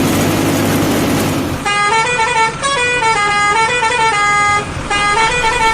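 Cartoon vehicle sound effects: a steady engine rumble that stops about a second and a half in. A melody of held notes in a horn-like tone follows and runs to the end, changing note several times a second.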